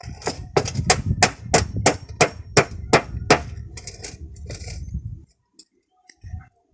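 Hammer driving a nail into a car tyre: a quick steady run of sharp strikes, about three a second, stopping after about five seconds, with a few faint knocks near the end.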